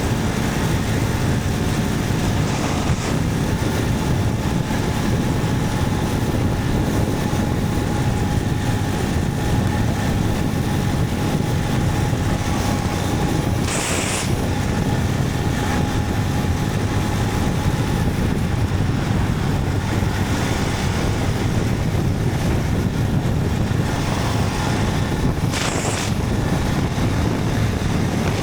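Motorcycle riding at a steady speed: the engine running under heavy wind rush over the microphone. Two brief hisses break in, about halfway through and near the end.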